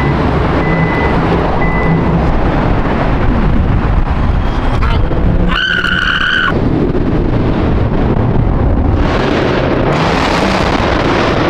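Car engines running close by, a loud steady rumble, with a short high-pitched tone lasting about a second around the middle.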